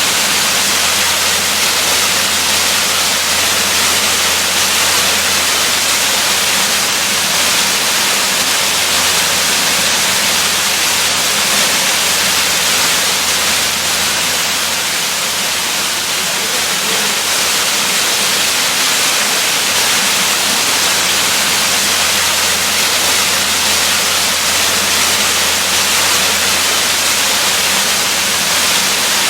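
Waterfall: a steady, loud rush of falling water, an even hiss strongest in the upper range.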